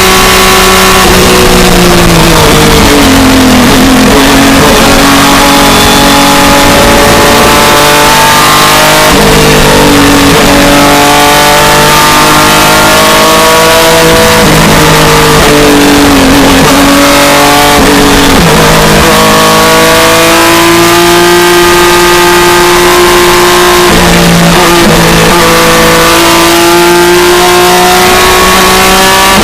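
BMW E36 M3 IMSA GT race car's six-cylinder engine at racing speed, heard loud from inside the cockpit. The revs climb steadily and then fall away several times as the car changes gear and brakes.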